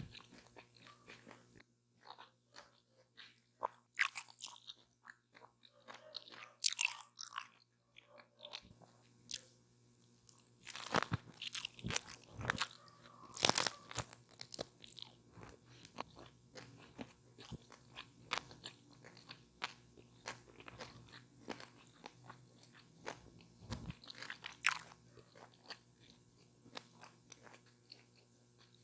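A person biting into and chewing a chicken taco with lettuce and tomato, with irregular crisp crunches and wet chewing. A run of louder crunches comes about halfway through.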